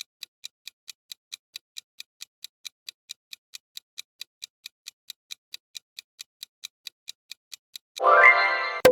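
Clock-tick countdown sound effect, ticking evenly at about four ticks a second. Near the end, a short pitched sound effect with a sharp click cuts in.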